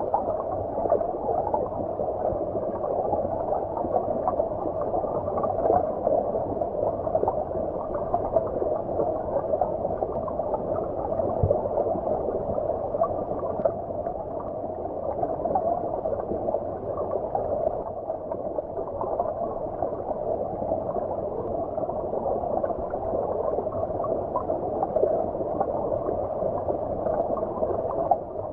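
Stream water flowing and gurgling, heard muffled as from underwater: a steady, dull rushing with no bright hiss.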